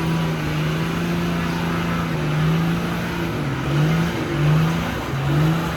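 Truck engine held at a steady high speed, then revved up and down in several quick blips in the second half.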